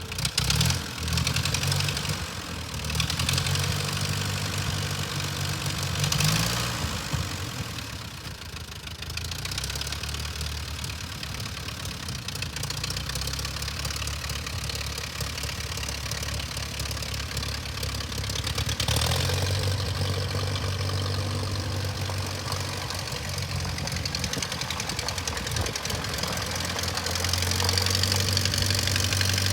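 Ford 8N tractor's gasoline four-cylinder flathead engine running at a steady idle. Its speed shifts a couple of times, and it runs louder in the last third.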